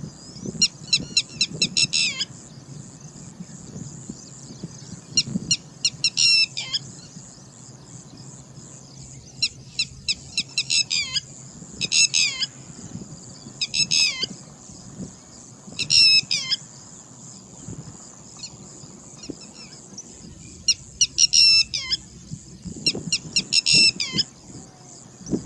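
Red-wattled lapwing giving its alarm call: bursts of sharp, rapidly repeated notes, a volley every few seconds. These are the calls of an agitated bird.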